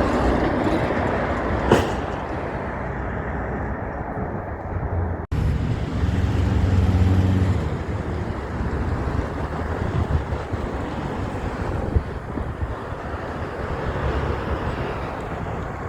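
Heavy trucks passing on a road: low engine rumble and steady tyre and traffic noise. There is a sudden break about five seconds in, and after it a louder engine rumble for a couple of seconds.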